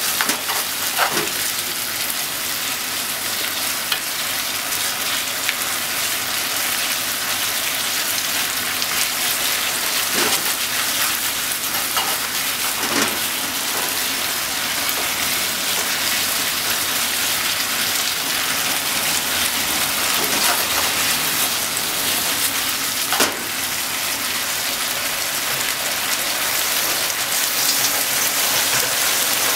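Chicken and vegetables in sweet-and-sour sauce sizzling in a frying pan as they are stir-fried with chopsticks: a steady hiss, broken by a few sharp clicks of the chopsticks against the pan.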